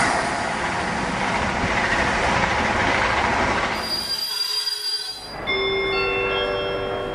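Sound effect of a train passing: a loud rushing noise that fades out after about four seconds. About five and a half seconds in, a few steady held tones come in one after another.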